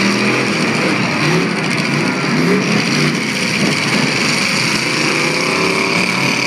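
Engines of several demolition derby cars running and revving at once, their pitches rising and falling over one another.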